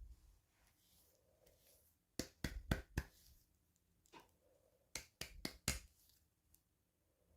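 Hands handling small toys and packaging during an unboxing, making two quick runs of sharp clicks and taps, four or five in each, about three seconds apart.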